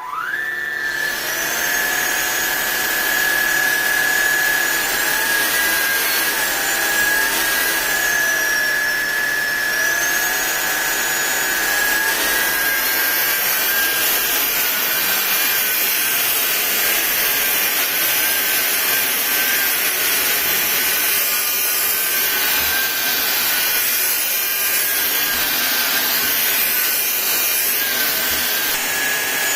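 SunSare 600 W cordless stick vacuum cleaner switched on and running: its motor spins up within a second to a steady high whine over a loud rush of air. Some fainter tones glide up and down in the first dozen seconds.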